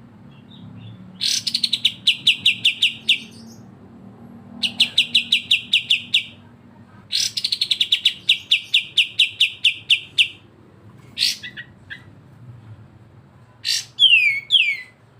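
Recorded song of a kapas tembak or cucak jenggot for bird-song training: three bursts of a fast, rattling trill of rapidly repeated high notes, each lasting two to three seconds. Near the end come a few short calls and two quick falling whistles.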